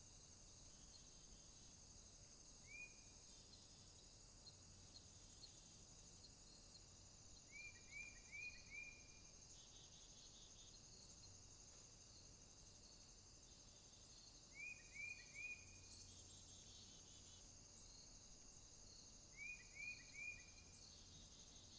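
Faint, steady chorus of crickets or similar insects, broken four times by short, hooked chirps in quick runs of three or four.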